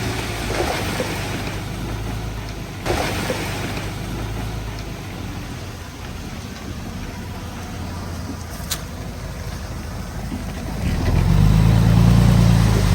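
Heavy diesel engine of earthmoving machinery running steadily, with a sharp knock about three seconds in. Near the end the engine grows much louder, as under load or throttle.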